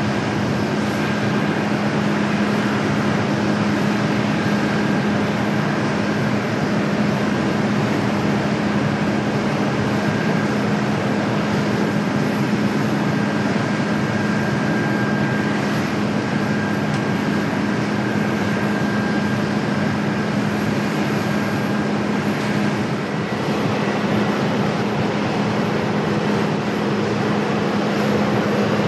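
Jet airliner engines running steadily: a continuous roar with a constant low hum and a faint high whine that fades out a little past the middle.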